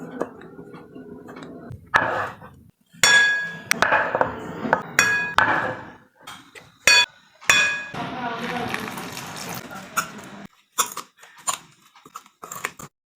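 Metal kitchenware clinking and clanking: a string of sharp knocks, several ringing on briefly like struck steel bowls or utensils, in two bunches with a lull around 9 to 10 seconds in.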